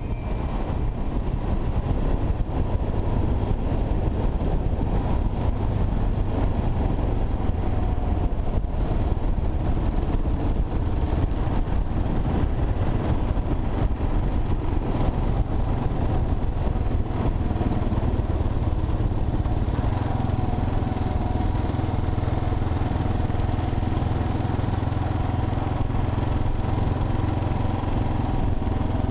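Kawasaki KLR 650's single-cylinder engine running at a steady cruise, its low hum even throughout with road and wind rush over it.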